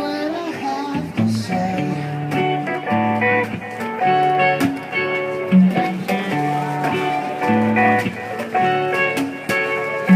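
Live acoustic band playing an instrumental passage: plucked guitar and mandolin with hand-drum (conga) strokes keeping a steady beat.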